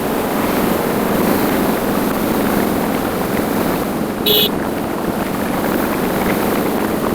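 Motorcycle riding at speed: steady engine and wind noise on the microphone, with a short beep about four seconds in.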